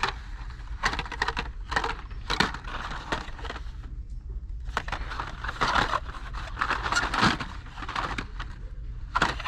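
Plastic-and-cardboard blister packs of die-cast toy cars being handled and shuffled on metal store pegs: irregular crinkling rustles and small clicks, over a steady low store hum.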